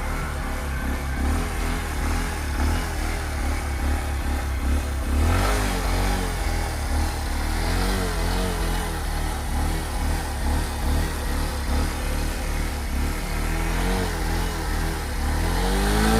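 Bajaj Platina single-cylinder four-stroke motorcycle engine being revved in place, its pitch rising and falling again and again in short blips over a low running hum.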